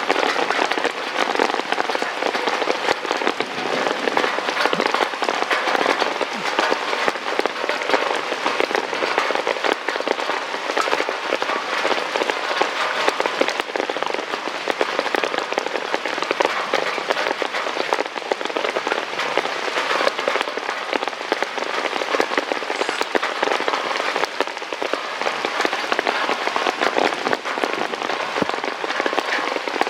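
Heavy rain falling steadily, a dense crackling patter of drops on a hard surface.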